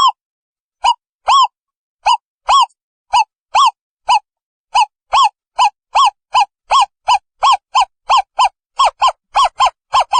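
Owl calling: a series of short, identical hooting notes that speeds up from about two a second to about four a second, with silence between the notes.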